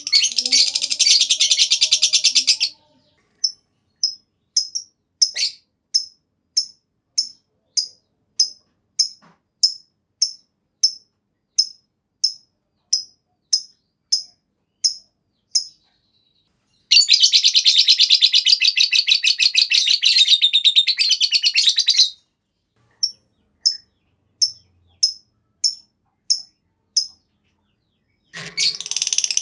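Lovebird's long 'ngekek' chatter: a rapid high-pitched trill that runs for a few seconds at a time, three times, separated by runs of single sharp chirps repeated about every half-second.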